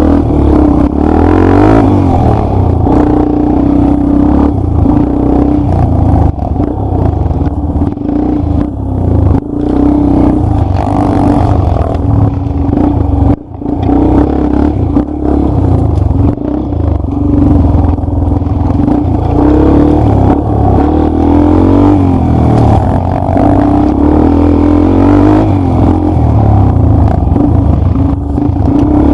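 Enduro dirt-bike engine under way on a trail, its revs rising and falling with the throttle, with a brief drop in engine sound about halfway through.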